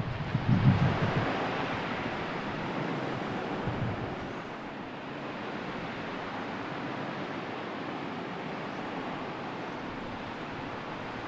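Sea surf washing steadily with wind. A louder surge with a low rumble comes about a second in.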